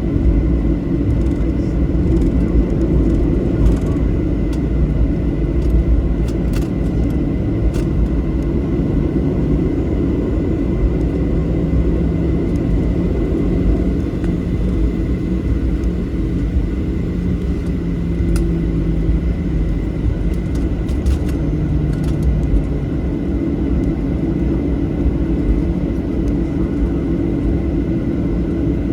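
Jet engines of a Southwest Airlines Boeing 737 idling as it taxis to the gate: a steady low rumble with a thin, steady high whine.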